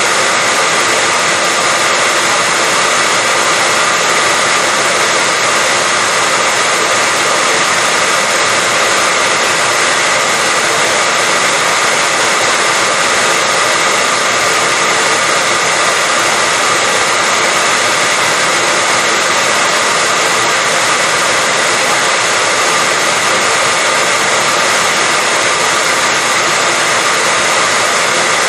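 Hair dryer running steadily, a loud even blowing hiss with a faint high whine from its fan motor.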